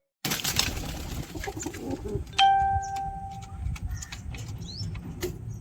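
Domestic pigeons cooing over a low rumble and scattered clicks. About two and a half seconds in comes a single ringing bell-like tone that lasts about a second.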